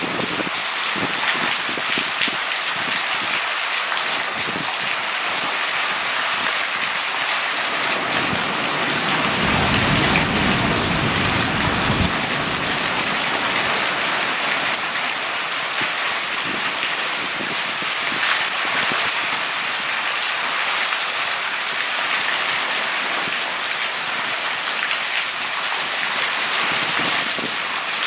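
Steady rain, a dense even hiss, with a low rumble of thunder for a few seconds about a third of the way in.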